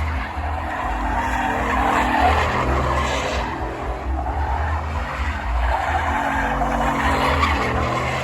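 Ford pickup truck doing donuts: the engine is held under throttle while the tyres skid and squeal without a break.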